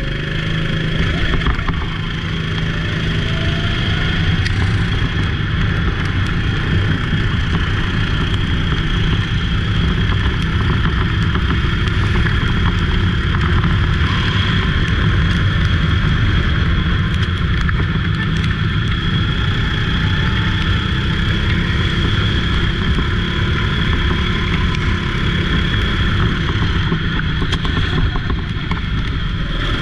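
Go-kart engine running steadily under racing load, loud and unbroken, with a steady high whine above the engine note.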